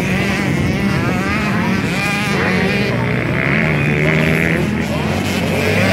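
Several motocross dirt bikes racing, their engines revving up and down at once through the gears.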